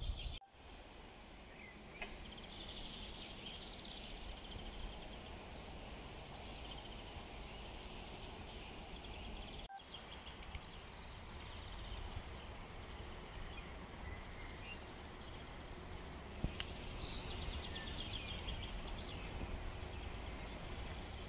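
Outdoor park ambience: a low steady background rumble with birds chirping now and then, a burst of chirps a few seconds in and another near the end. The sound breaks off briefly near the start and again about ten seconds in.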